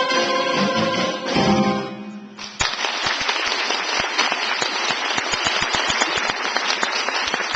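A musical number with guitar accompaniment ends about two seconds in; a moment later an audience breaks into steady applause.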